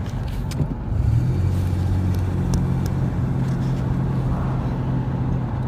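Truck engine and road noise heard inside the cab: a steady low hum that grows a little louder about a second in, with a few faint clicks.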